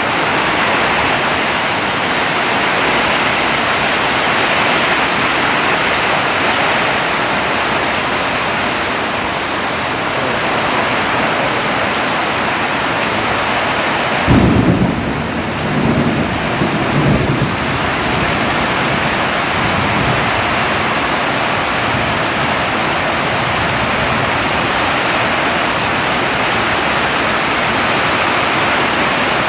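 Heavy rain pouring steadily. About halfway through, thunder breaks in with a sudden low rumble that dies away over a few seconds.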